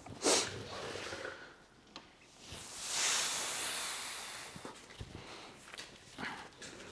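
A hissing spray swells about two and a half seconds in, then fades over about two seconds, with a few short, sharp sounds before and after it.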